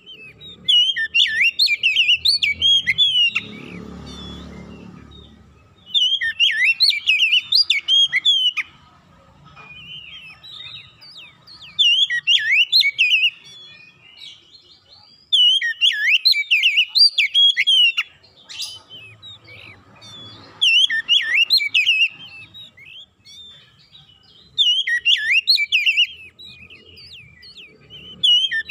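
Oriental magpie-robin singing: about six phrases of rapid, varied whistled notes, each a few seconds long and separated by short pauses.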